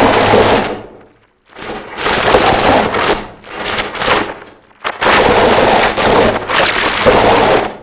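Harsh noise music: walls of dense, distorted noise that cut in and out in blocks of one to three seconds, with brief drop-outs about a second in, at about three and a half seconds, and just before five seconds.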